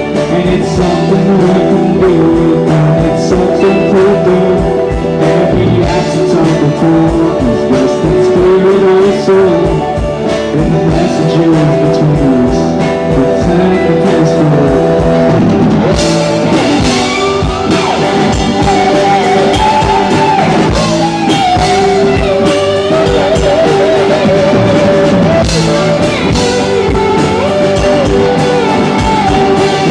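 Live rock band playing a song: sung vocals over guitar and drums.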